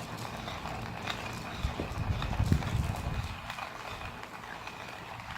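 Hunt Brothers hand coffee grinder crushing coffee beans as its handle is cranked: an uneven crunching with scattered clicks.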